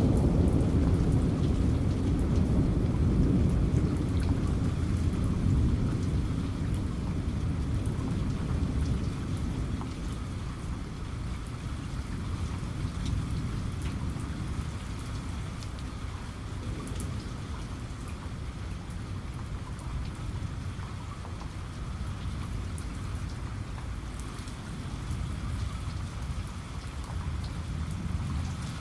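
Steady heavy rain with scattered drips pattering, under the tail of a low thunder rumble that fades away over the first several seconds.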